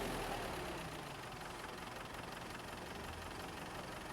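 A vehicle engine running steadily at idle or low speed, a low even rumble.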